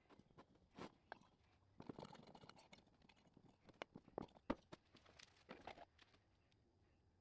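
Faint handling noises: scattered light clicks and taps with a short spell of rustling.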